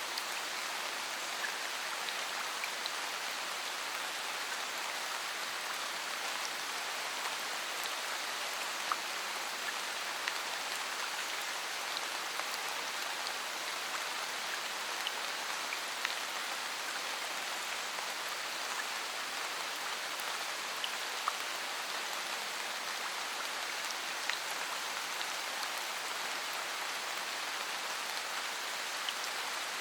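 Steady rain falling: an even hiss of many drops, with scattered single drops ticking out above it.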